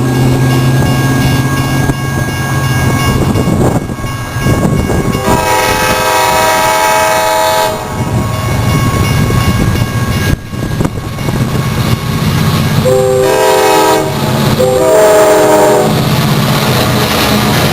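CSX freight train's locomotive sounding its multi-note air horn: a long blast about five seconds in, then two shorter blasts near the end, over the steady low rumble of the passing train.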